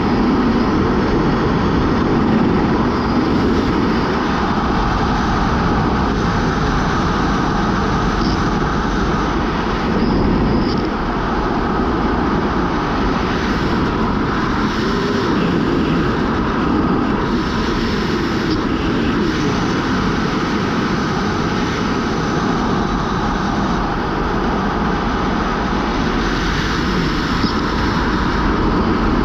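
Steady, loud rush of wind buffeting the microphone during a skydive.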